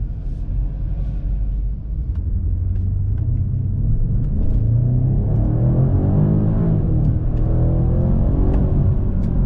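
2022 BMW M5 Competition's 4.4-litre twin-turbo V8 under hard acceleration. The engine rumble grows louder about four seconds in, its note climbing and falling in pitch as the car pulls through the revs.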